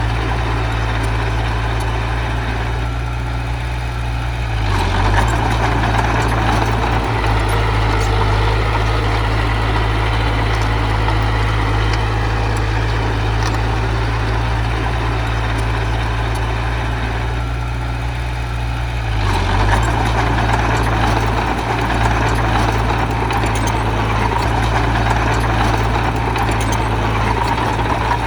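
Heavy machine's diesel engine running steadily, working harder twice: about five seconds in and again near twenty seconds in, each time with a louder mid-pitched rumble and clatter lasting several seconds.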